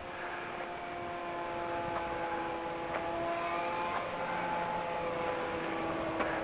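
Radio-controlled Cessna 182 Skylane model airplane's motor and propeller running steadily in flight: a thin hum made of several held tones.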